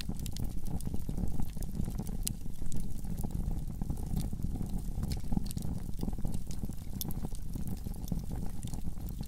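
Wood fire burning in a fireplace: a low, steady rumble of flames with many small, irregular crackles and pops.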